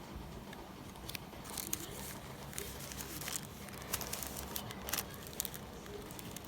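Scattered crinkles and light clicks of materials being handled by hand, over a steady low hum.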